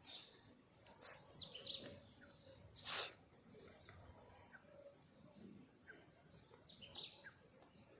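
Birds chirping: clusters of short, quick downward-sliding calls about a second in and again near the end, with a couple of sharp, louder sounds between them.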